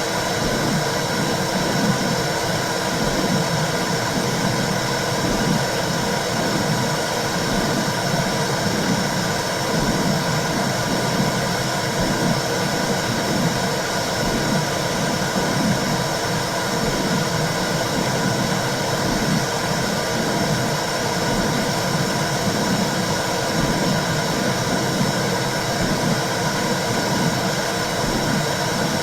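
Womb sound for soothing babies: a steady whooshing noise with a low, regular pulsing beneath it, like blood flow and a heartbeat heard from inside the body.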